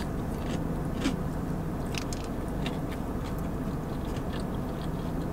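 Close-up chewing of a bite of breaded fried chicken finger, with small crunches and wet mouth clicks every half second to a second over a steady low hum.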